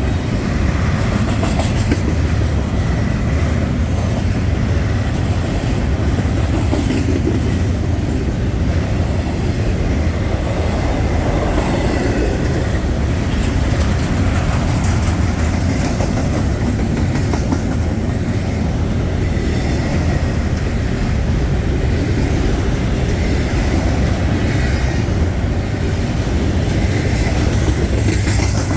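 Freight train cars rolling past at close range: a steady, loud rumble of steel wheels on rail with scattered clicks from the wheels crossing joints.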